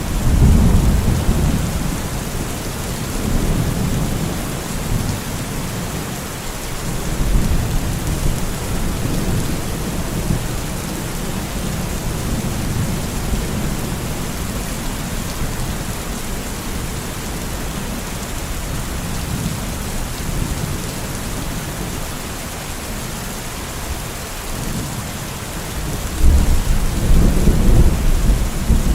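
Steady rain hissing, with low rolling thunder rumbling in and out: a swell right at the start, another about a third of the way in, and a louder one in the last few seconds.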